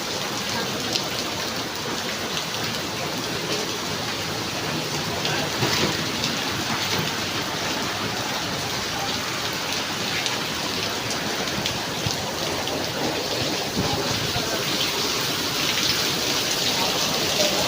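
Heavy rain pouring steadily, a dense even hiss with scattered drop ticks.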